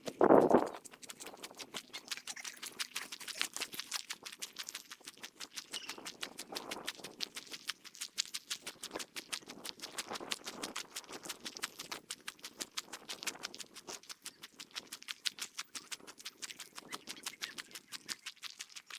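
Walking footsteps played back at three times normal speed, a rapid even patter of about six steps a second. A brief louder thump just at the start.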